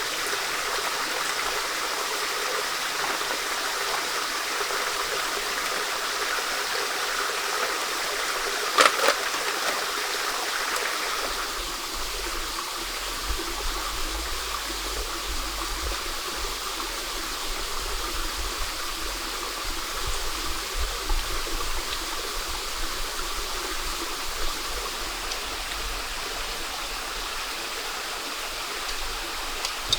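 Stream water running steadily, with one sharp knock about nine seconds in and a low rumble joining from about eleven seconds on.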